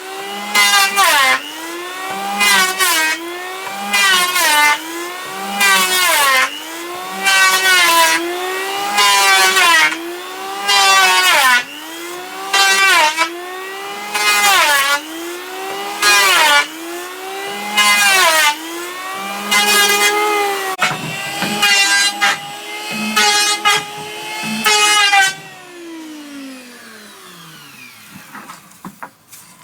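Electric hand planer cutting wood in repeated passes about every second and a half, its motor pitch dipping under load with a burst of cutting noise on each pass. Near the end it runs freely for a few seconds, then is switched off and winds down to a stop.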